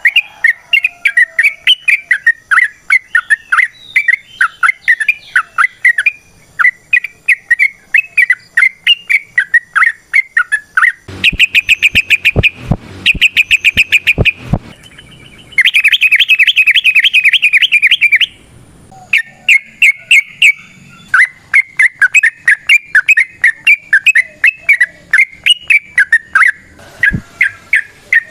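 Yellow-vented bulbul (trucukan) singing a loud, rapid chattering song of short notes. It breaks into two long fast trills in the middle.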